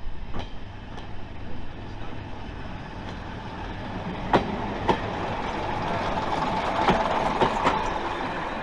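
A train running on the line: a steady rumble that swells to its loudest about seven seconds in and then eases, with a few sharp clicks of wheels over the rail joints.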